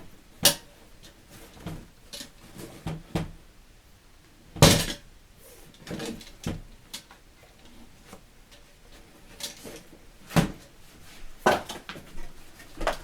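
Parts of a stainless-steel fire pit being handled and fitted together: irregular metallic clinks and knocks, a few of them sharp and loud, with lighter taps between.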